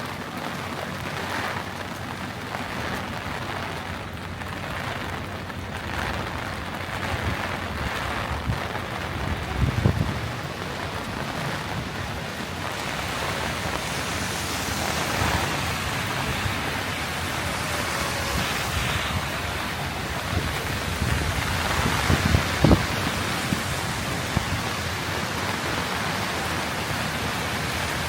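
Heavy rain falling on a city street, a steady hiss. Twice, about a third of the way in and again about three quarters of the way in, there are brief low thumps.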